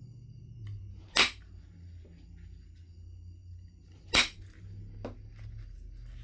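Two sharp percussion strikes on Knife River Flint, about three seconds apart, with a fainter tap about five seconds in: flakes being struck off the stone in knapping. A low steady hum runs underneath.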